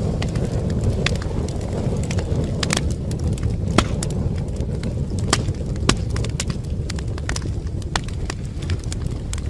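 Wood fire burning in a fireplace: a steady low rumble of flames with irregular sharp crackles and pops, a few of them louder, about four and six seconds in.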